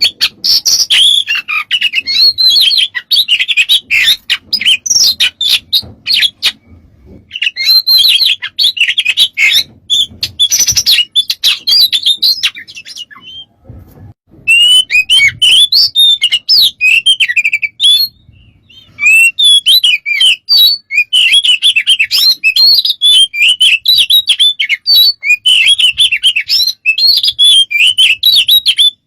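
Oriental magpie-robin (kacer) singing a loud, varied song of rapid whistles and chatters packed with mimicked phrases, in long bursts broken by brief pauses about a quarter, half and two-thirds of the way through.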